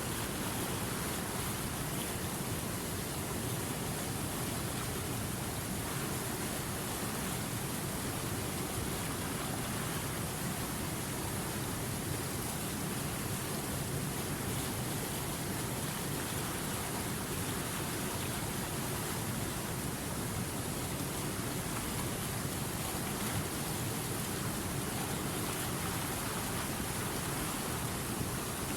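River water rushing over rocks, a steady unbroken hiss that spreads evenly from low to high pitch.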